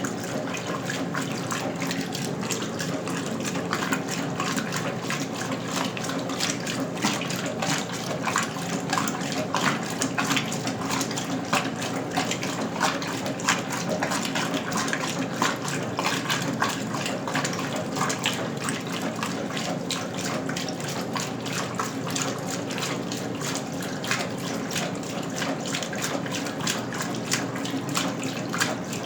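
Westinghouse Lavínia washing machine (1977) at work: water runs and splashes inside the tub, with a steady low hum underneath.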